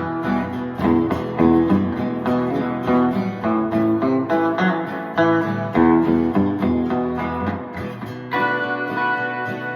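Instrumental break in a country song: strummed acoustic guitar with a picked guitar melody over it.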